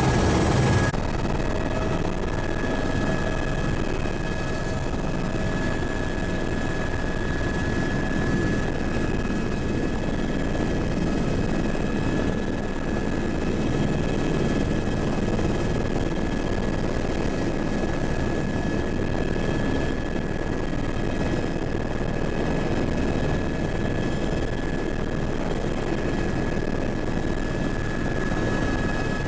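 Helicopter running steadily: a constant noise from the rotor and engine, with a steady high whine over it.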